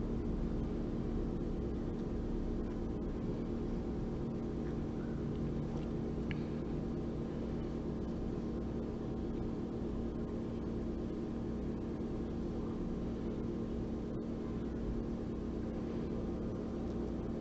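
A steady low hum made of several constant tones, unchanging throughout, with a faint click or two.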